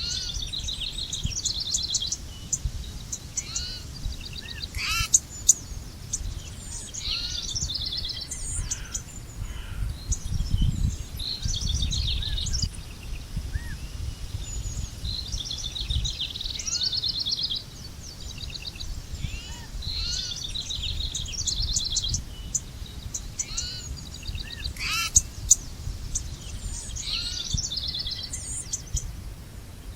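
Several songbirds singing and calling in overlapping bursts, with quick trills and short chirps, over a steady low background rumble.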